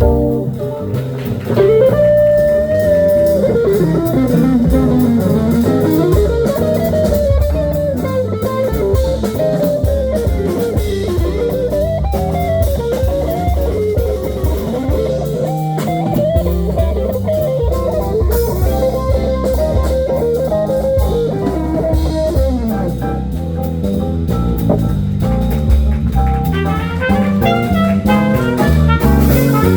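Blues band playing an instrumental break: a guitar solo with bending, sliding notes over drums and bass.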